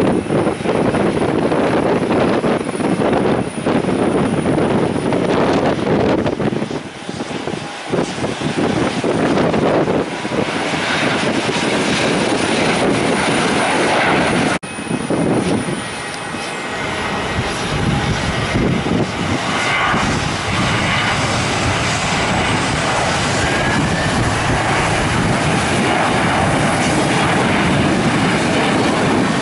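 Fixed-wing aircraft engines running loud and steady as a plane passes, with the pitch of the noise shifting higher about halfway through.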